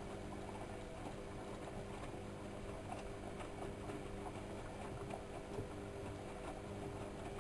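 AEG Electrolux Lavamat L6461 front-loading washing machine on a 95°C boil wash, its drum turning: a steady motor hum under a continuous patter of small knocks from the wash load tumbling.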